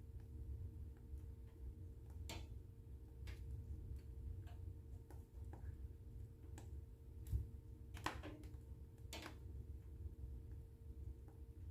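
Wood fire burning in a fireplace, with sparse, irregular crackles and pops a second or two apart over a low steady rumble. The loudest snaps come about eight and nine seconds in.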